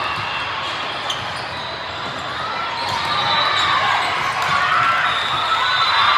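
Echoing gymnasium ambience: a ball bouncing on a hard court amid a steady wash of crowd chatter.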